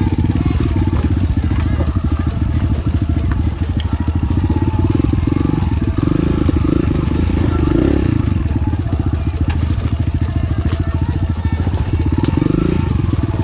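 Enduro dirt bike engine running at low trail speed, with the engine swelling briefly about halfway through and again near the end.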